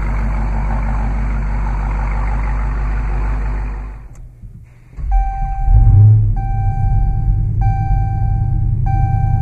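The 2015 Dodge Challenger SRT Hellcat's supercharged 6.2-litre Hemi V8 idling, cut off about four seconds in, then restarted about a second later with a rev flare and settling back to a steady idle. The car's warning chime sounds four times, about every 1.2 seconds, after the restart.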